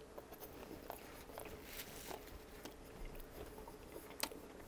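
Faint close-miked chewing of a mouthful of sub sandwich bread, with soft scattered mouth clicks and crackles and one sharper click a little past four seconds.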